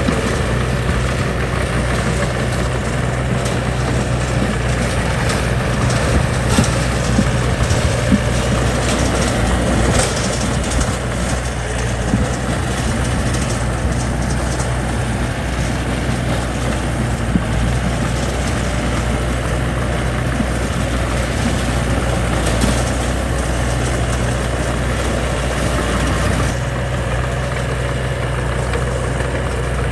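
Diesel engine of heavy earthmoving machinery running steadily, with scattered clunks and knocks, louder between about six and eight seconds in.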